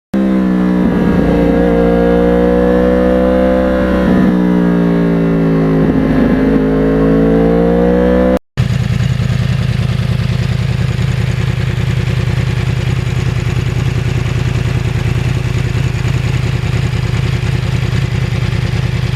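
2009 Yamaha R1 crossplane inline-four running through a custom exhaust while being ridden. Its note rises and falls with the throttle for the first eight seconds or so, then cuts off abruptly and gives way to a steadier low drone under a rushing noise.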